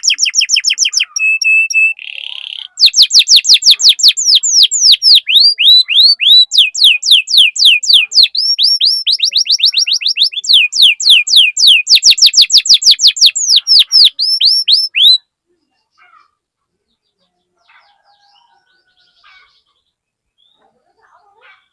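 Canary singing. It opens with a rapid trill, a short steady whistle and a buzzy note, then runs into a long fast series of downward-sweeping whistles, several a second. The song stops abruptly about two-thirds of the way through.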